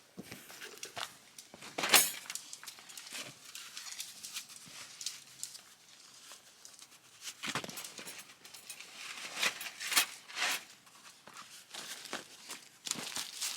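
Irregular close knocks and clicks with rustling, the sharpest knock about two seconds in and another busy cluster past the middle.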